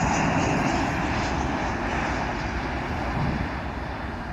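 Jet airliner's engines on landing approach, a steady roar that gradually fades as the plane passes by.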